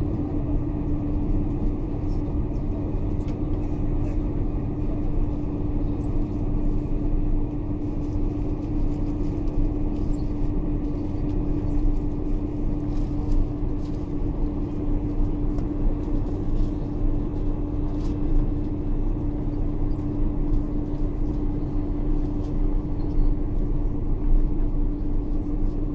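Boeing 747-400 cabin noise: a steady low rumble of the engines and airflow with a constant hum, plus a few faint clicks, heard from inside the cabin.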